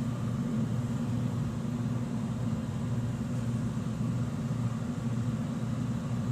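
A 2010 American Standard high-efficiency gas furnace running, its PSC blower motor moving air with a steady hum and rush.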